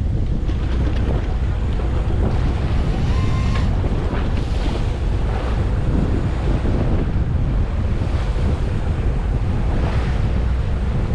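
Steady wind buffeting the microphone over the wash of the sea on a fishing boat, a constant low rumbling noise.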